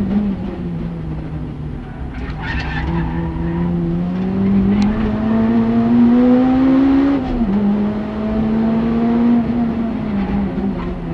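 Honda Civic Type R EP3's K20A four-cylinder engine heard from inside the cabin, pulling hard with rising pitch. An upshift about seven seconds in drops the pitch sharply, and the engine eases off near the end. There is a brief tyre squeal about two seconds in.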